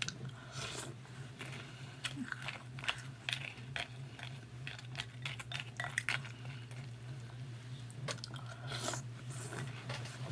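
Close-up chewing of a mouthful of Froot Loops with marshmallows in milk: a run of irregular, crisp crunches. A steady low hum sits underneath.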